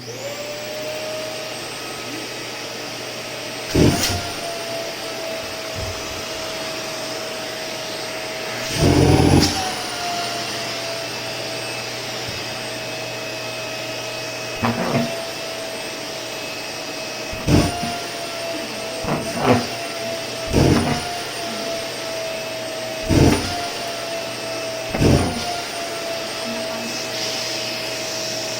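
Vacuum cleaner switched on and running with a steady whine while cushions are vacuumed. About eight short knocks come as the nozzle works, the motor's pitch rising briefly at each one.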